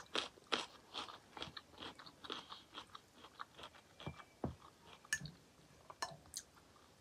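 Close-miked chewing of a mouthful of vegetables: soft, irregular crunches and wet mouth clicks, several a second.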